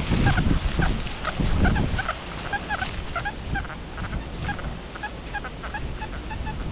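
A flock of geese honking, many short calls overlapping throughout. Strong wind rumbles on the microphone for the first two seconds or so, then eases.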